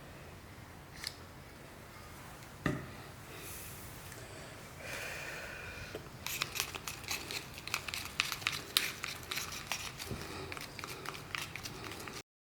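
Packaging being handled and crinkled, with a single knock about three seconds in, then a run of quick crackles and clicks through the second half that stops suddenly.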